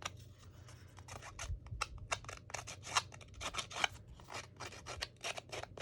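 A paper piece being roughed up to distress it: a run of short, quick scratchy strokes across the paper.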